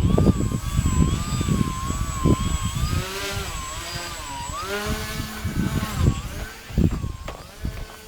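Propeller and motor of an EPP foam RC aerobatic plane in flight, a whine whose pitch wavers up and down, dipping and rising again about halfway through. Strong wind buffets the microphone with heavy rumbling gusts.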